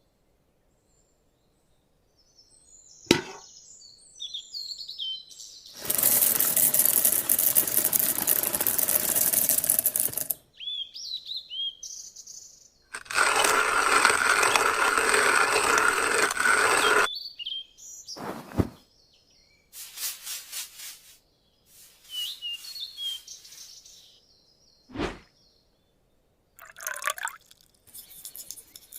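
Small birds calling in short high chirps. The chirps are broken by two loud stretches of rushing noise, each a few seconds long, and by a few sharp clicks.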